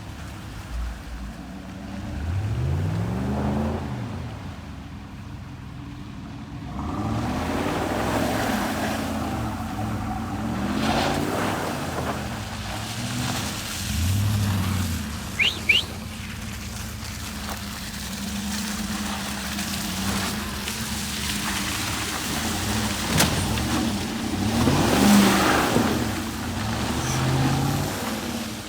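Motor vehicle engines, likely trucks, running and passing, their pitch rising and falling several times over a steady engine hum. Two short sharp squeaks come about halfway through.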